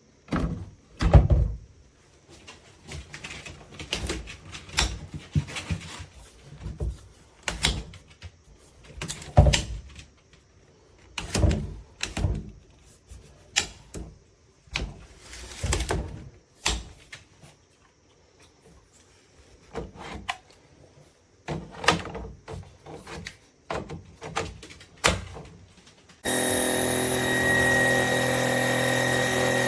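Scattered knocks, clicks and clatter of hard parts being handled, then about 26 seconds in a Trucozie cordless stick vacuum's motor switches on and runs with a steady whir and a high whine.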